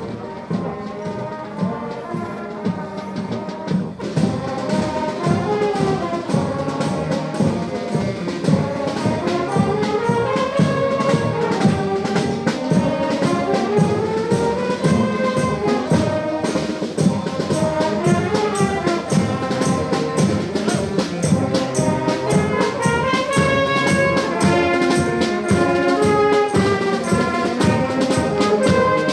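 Brass band playing a tune with trumpets and trombones over a steady drum beat, getting louder a few seconds in.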